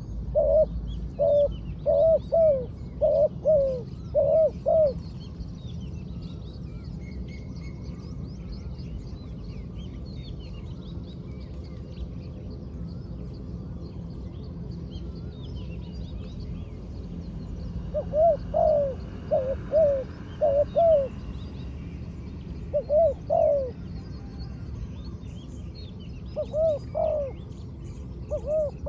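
Spotted dove cooing in phrases of several short notes: a run of coos at the start, a long pause, then more phrases from about two-thirds of the way through. Small birds chirp faintly throughout.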